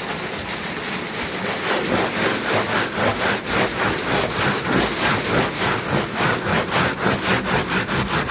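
Sandpaper scrubbed back and forth over the painted surface of a truck toolbox lid, scuffing up the old finish so new paint will bond. It starts as a soft rub and settles about a second and a half in into quick, even strokes, about three a second.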